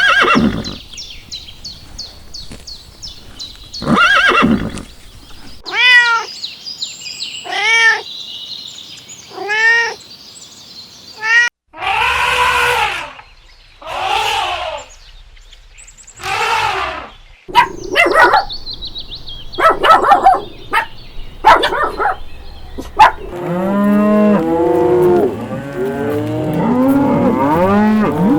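Farm animals calling, edited one clip after another. A run of single arched calls about every two seconds gives way to three longer, noisier calls, then short sharp calls, and near the end many animals calling over one another.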